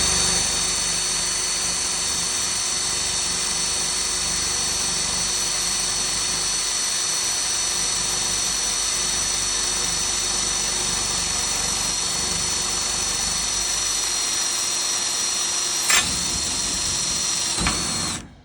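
Electric drill running steadily under load, drilling a hole through steel plate with a 3/16-inch Kimball Midwest twist bit. There is one sharp click about three-quarters of the way through, and the drill stops near the end once the hole is through.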